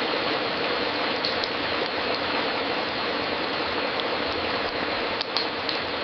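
Fireplace fire crackling: a steady hiss with a few sharp pops, a pair about a second in and several close together near the end.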